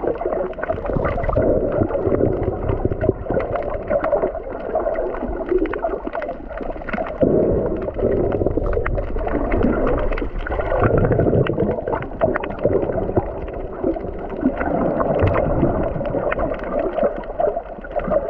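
Muffled water sloshing and gurgling recorded underwater, with many small clicks and crackles, swelling and easing every few seconds.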